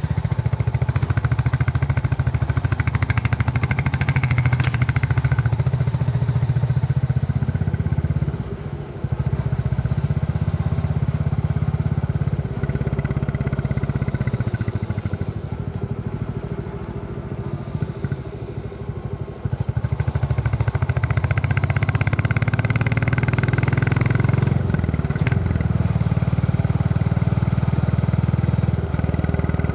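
Royal Enfield Classic 350's single-cylinder engine thumping along under way. The engine drops briefly about eight seconds in, runs quieter for several seconds around the middle as the throttle eases, then pulls again.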